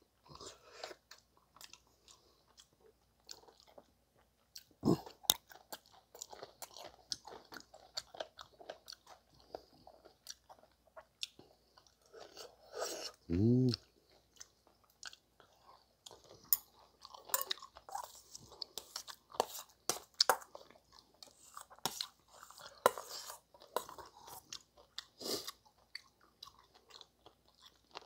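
Close-up chewing and crunching of kimchi and rice, with scattered sharp clicks of steel chopsticks and a spoon against a stainless steel bowl. A short hum from the eater comes about thirteen seconds in.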